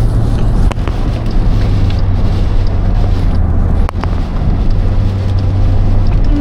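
Steady road and wind noise inside a moving car at highway speed: a low drone of tyres and engine under a rushing hiss, with a few sharp ticks.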